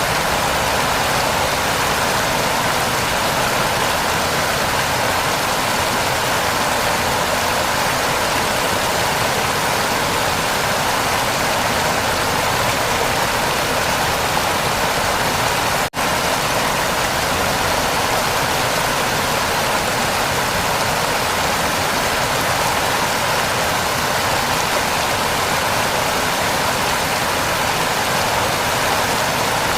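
Heavy rain falling, a steady unbroken hiss that cuts out for an instant about halfway through.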